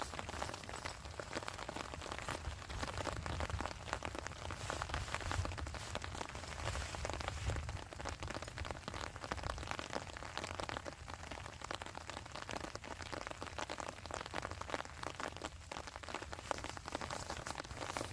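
Heavy rain falling steadily, a dense patter of drops hitting a surface, with a low rumble underneath in the first half.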